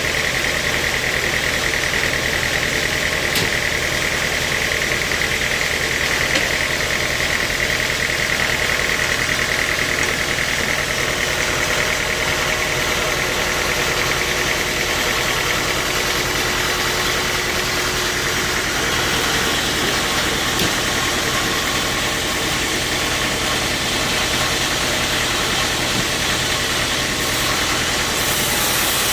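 Sawmill machinery running steadily, with an engine hum and a high whine that fades away partway through.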